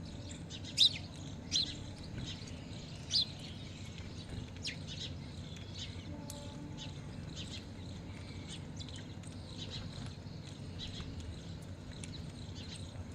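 Birds chirping: short, sharp high calls, three louder ones within the first few seconds and many fainter ones scattered after, over a steady low hum.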